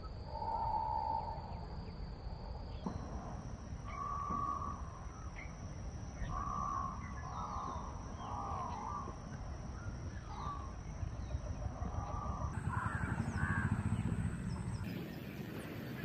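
Birds calling: a dozen or so short calls at irregular intervals, over a steady low rumble.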